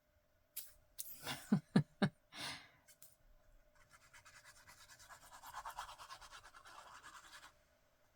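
Paper rustling with a few sharp taps, then about three and a half seconds of fast back-and-forth rubbing on paper, as a glued paper piece is pressed and smoothed down.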